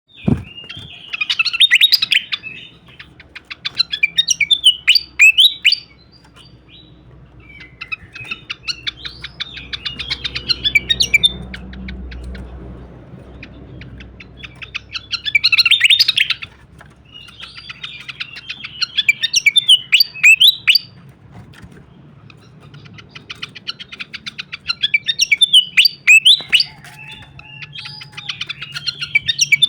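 A srikatan kipas songbird singing in bouts of rapid, high chattering and twittering notes, about seven bouts each a few seconds long, with short pauses between them.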